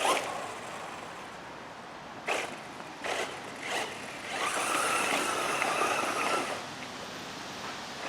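Electric RC car driving: a few short bursts of motor and tyre noise, then about two seconds of sustained high motor whine with tyre hiss at full throttle.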